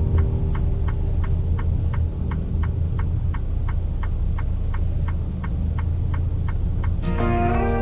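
Steady low rumble and hiss of a car driving on a wet highway in the rain, with a regular ticking about three times a second. A slide-guitar country song starts near the end.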